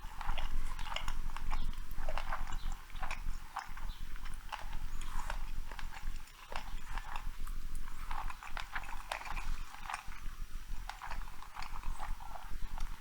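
A cat chewing and eating raw meat up close: dense, irregular wet chewing clicks and smacks.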